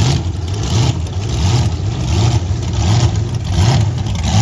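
Supercharged (blower) monster truck engines running loud, with a lumpy idle that rises and falls in repeated swells.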